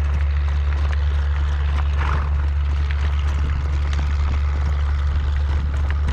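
Wind buffeting the microphone: a strong, steady low rumble, with faint irregular clicks and knocks over it.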